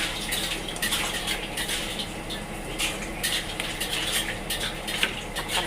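A metal utensil clinking and scraping against a cooking pot as a stew is stirred, with irregular clicks several times a second.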